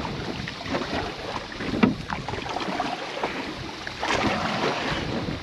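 Canoe paddling: paddle strokes and water splashing against the hull, with wind buffeting the microphone. There is a sharp knock a little under two seconds in and a louder splashy rush about four seconds in.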